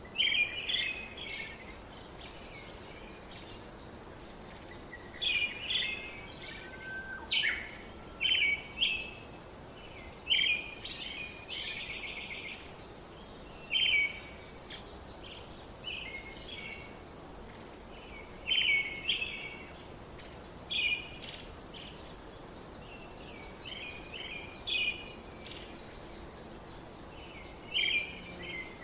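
Small birds singing, short chirping phrases repeated every one to three seconds over a steady background hiss.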